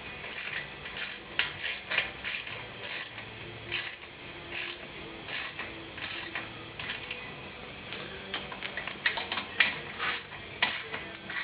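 A socket ratchet clicking irregularly as the exhaust silencer's bolts are turned partway down. The clicks come thicker about nine seconds in.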